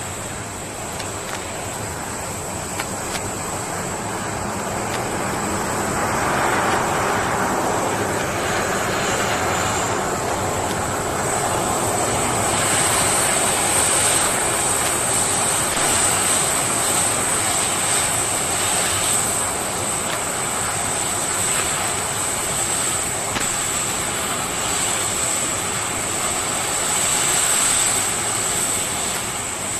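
Concorde's Rolls-Royce/Snecma Olympus 593 turbojet engines running: a steady high-pitched whine over a broad rushing noise, growing louder about six seconds in and again around twelve seconds in.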